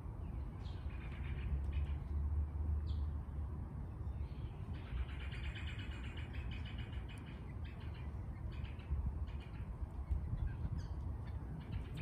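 Birds chirping and calling in short bursts, with a run of rapid chattering about five seconds in, over a steady low rumble.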